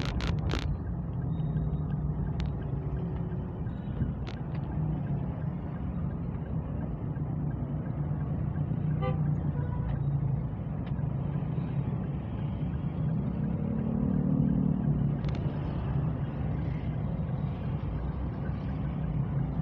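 Steady motor-vehicle engine and road noise heard while travelling along, a continuous low drone that swells for a couple of seconds about two-thirds of the way through.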